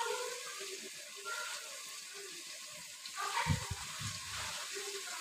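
Mutton and spices frying in a pot with a soft, steady sizzle. About three and a half seconds in, a few dull knocks as the nut paste is scraped off a spoon into the pot.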